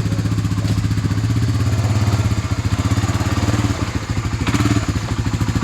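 An engine idling, a steady, rapid, even pulsing throb, with a brief rattle about four and a half seconds in.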